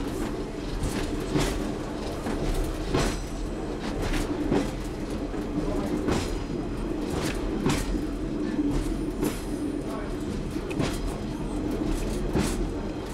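Class 101 diesel multiple unit running along the line, heard from on board: wheels clacking over the rail joints about once a second over the steady drone of the diesel engines.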